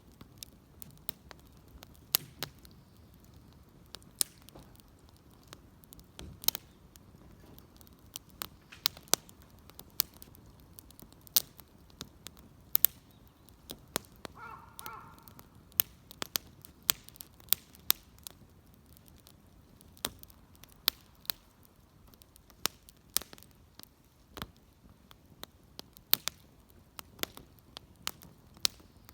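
Wood bonfire crackling, with irregular sharp pops and snaps of burning wood.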